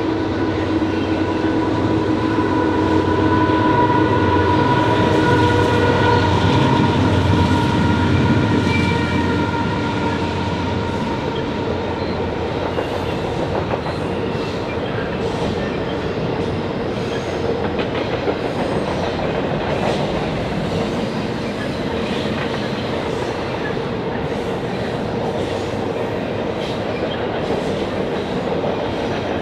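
A train passing close by. It is loudest in the first ten seconds or so, with a low rumble and several steady tones, then settles into a steady rolling sound with wheels clicking over rail joints.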